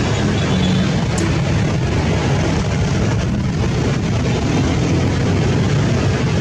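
Lockheed C-130 Hercules's four turboprop engines as the transport comes in to land: a loud, steady, low drone.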